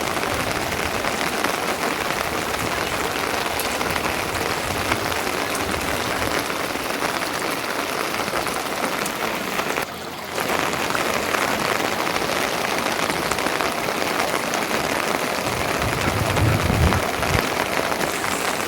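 Steady rain falling hard, with a brief drop in level about ten seconds in and a low rumble near the end.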